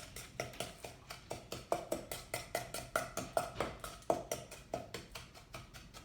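Utensil stirring and scraping against a small bowl, mixing melted butter with white and brown sugar in quick strokes of about five or six a second.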